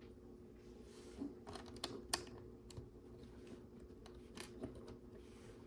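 Faint, scattered clicks and taps of small plastic LEGO pieces being handled and fitted, in a few quick clusters, over a steady low background hum.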